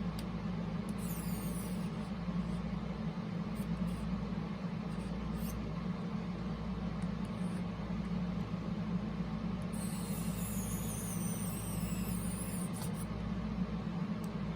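Toshiba RT-8056 boombox's small cassette-drive motor running steadily with a low hum, turning the newly fitted belts during a test run, with a few light clicks.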